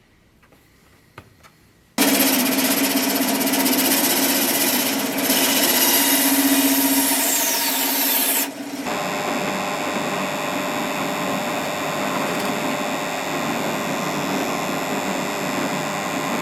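A power tool switches on about two seconds in and runs steadily with a loud, rough working noise; partway through its sound changes, taking on a steady high whine.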